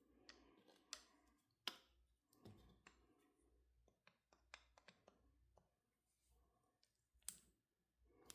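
Faint, scattered clicks and light taps of small hand tools and metal parts being handled while working on a carburetor, with the sharpest one about seven seconds in.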